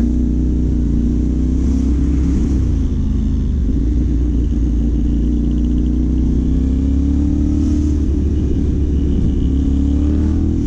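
CFMOTO 450 parallel-twin motorcycle engine through a Yoshimura AT2 replica slip-on exhaust, running at low speed with a deep rumble; the note rises gently through the middle and eases off near the end.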